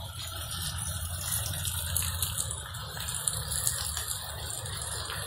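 Heavy rain pouring down: a steady hiss with scattered ticks of individual drops, over a low rumble.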